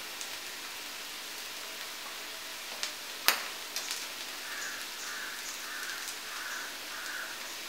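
Clam meat frying in a cast-iron kadai: a steady, soft sizzle, with a sharp click about three seconds in. A faint, evenly repeated high note joins in over the second half.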